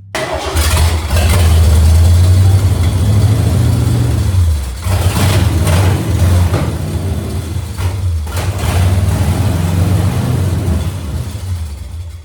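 Ford 351 Cleveland V8 running loud with no exhaust fitted, on gasoline poured down the carburetor with no fuel lines connected, its note rising and dipping a couple of times. It is the engine's first start in the car.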